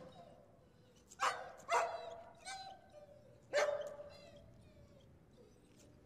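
A dog barking four times in about two and a half seconds, the third bark weaker than the others.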